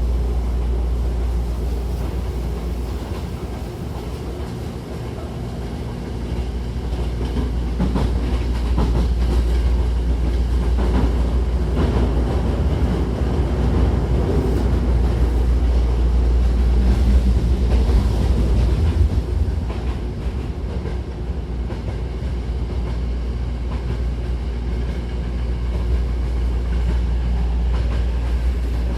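Running noise inside a Hankyu 1000-series electric train car under way. There is a steady low rumble from the wheels and running gear, with clickety-clack over the rail joints. It grows louder through the middle and eases off about two-thirds of the way in.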